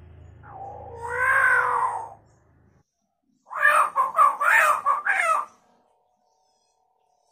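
Hill myna calling in chicken-like mimicry: one wavering call about half a second in, then a quick run of about six loud notes a couple of seconds later.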